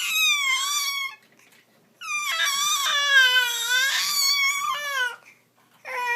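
Little boy's high-pitched vocal screams: a short one ending about a second in, a long drawn-out one of about three seconds, and another starting near the end.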